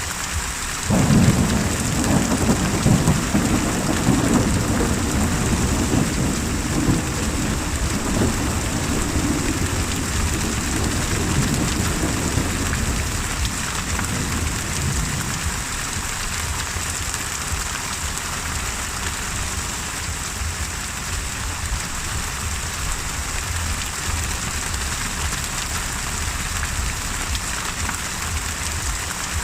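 Thunderstorm: steady rain hissing, with a thunderclap about a second in whose low rumble rolls on and fades out over some fifteen seconds.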